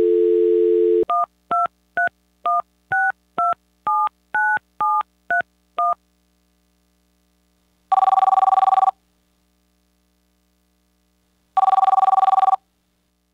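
Telephone call being placed. A dial tone sounds briefly, then eleven touch-tone digits are dialed at about two a second. After a pause the line rings twice, each ring about a second long and a few seconds apart.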